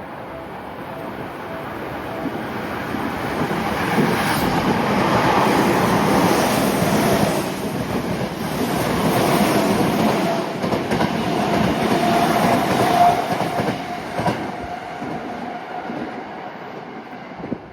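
Electric train running through the station without stopping: the rumble of the wheels on the rails builds up, stays loud with clicks at the rail joints and a steady whine, then fades as the train moves away.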